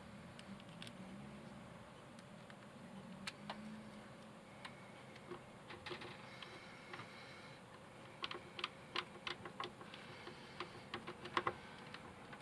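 Scattered light clicks and taps of small hard parts being handled, with a quick run of clicks about eight seconds in and a few more near the end.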